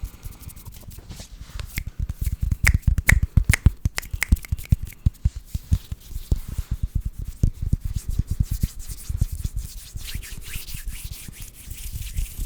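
Fast hand sounds made close to a sensitive microphone: a dense run of quick clicks and taps, loudest about two to five seconds in, giving way to dry rubbing toward the end.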